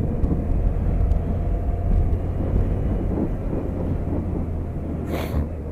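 BMW K1200RS inline-four engine running at a steady cruise under a heavy low wind rumble. About five seconds in comes a short, sharp sniff.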